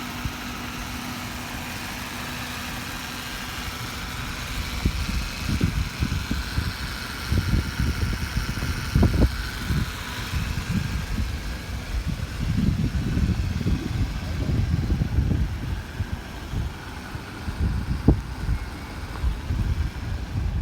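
A car running, with a steady hum at first and then an uneven low rumble that swells and fades from about four seconds in.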